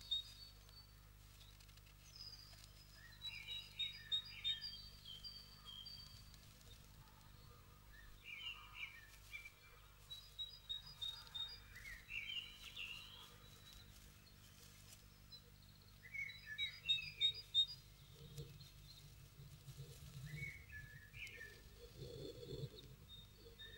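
Wild birds chirping and calling in short groups of high notes, heard muffled from inside a wooden nest box, with a few soft rustles near the end.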